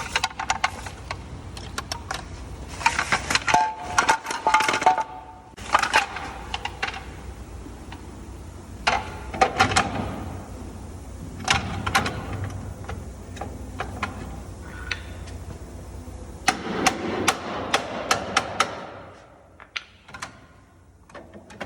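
Metal clanking, tapping and knocking of tools and brake parts while the brake shoes are changed on a truck's BPW drum brake. The strikes come in irregular clusters, some with a brief metallic ring, and they die down near the end.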